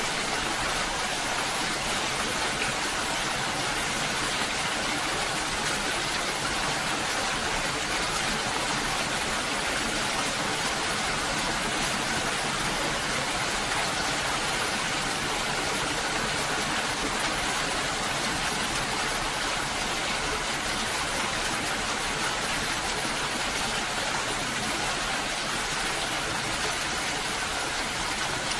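Steady rainfall: an even, unchanging hiss of falling water.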